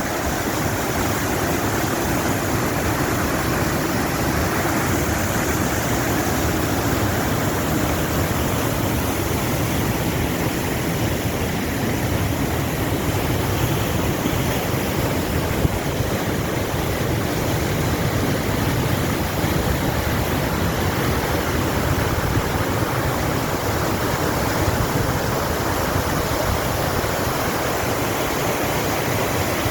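Steady rushing of fast-flowing water, like a mountain torrent or waterfall, an even, unbroken roar.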